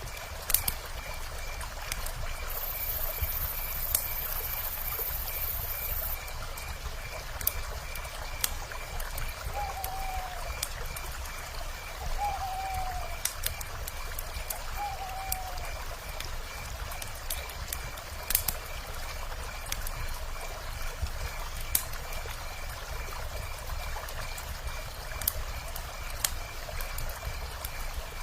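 River water running steadily, with the scattered sharp pops and crackles of a wood fire. Three short, slightly falling owl calls come a couple of seconds apart near the middle, over a steady rapid high chirping.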